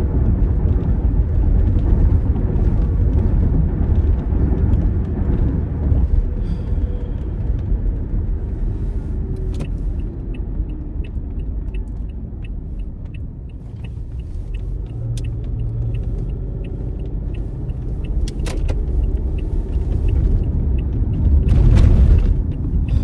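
Car interior rumble of engine and road while driving, easing off a little midway and building again. A light, evenly spaced ticking, like a turn-signal indicator, runs through the middle, and a louder rush comes near the end.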